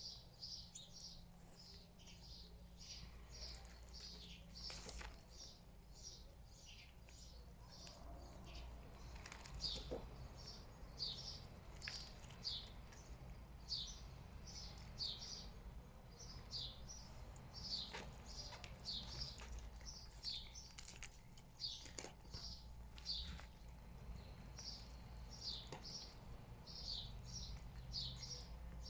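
Small bird chirping steadily, short high chirps about two or three a second, with a few scattered sharp clicks.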